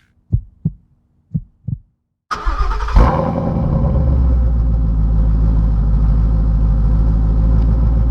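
A 2016 Ford Mustang GT's 5.0 L V8 with an X-Force long-tube header and Varex valved exhaust starting up about two seconds in, flaring briefly, then settling into a steady, deep idle. It is preceded by four short low thumps.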